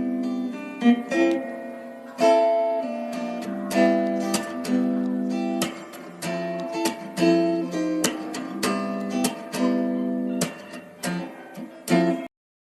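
Background music of plucked acoustic guitar, a run of notes and chords that each ring and fade. The music cuts off abruptly near the end.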